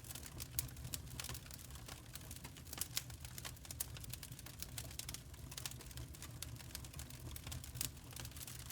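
Crackling wood fire: irregular sharp pops and crackles over a steady low rumble.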